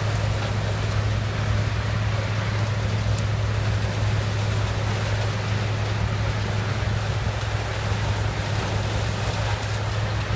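Case 7000 sugarcane harvester's diesel engine running steadily under load, a loud, even drone with a constant low hum.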